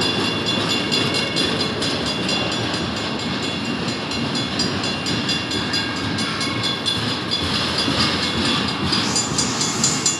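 Loaded double-stack intermodal well cars rolling past at speed, a steady rumble of steel wheels on rail. Over it a railroad crossing bell rings rapidly and evenly. Near the end come a few louder, sharper metallic clanks.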